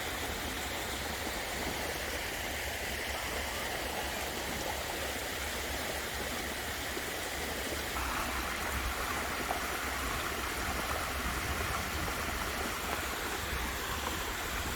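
Waterfall water splashing and rushing steadily, a little louder from about eight seconds in.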